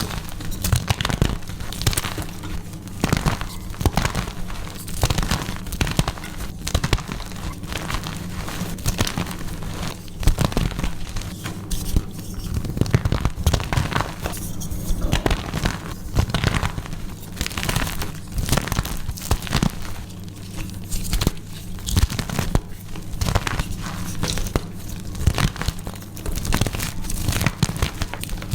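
Gritty purple paste chalk being crushed and crumbled, a dense run of irregular crunches and crackles over a steady low hum.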